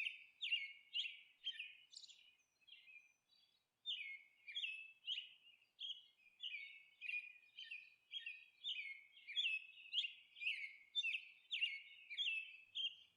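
A bird chirping over and over in short, high, falling notes, about two a second, pausing briefly about two seconds in.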